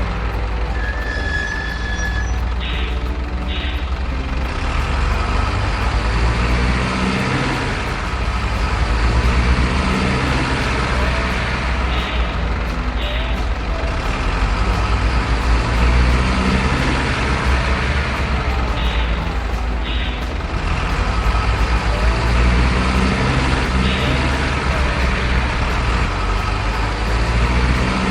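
Radio-controlled model truck running with a steady low diesel-truck engine rumble, with short hisses like an air brake several times.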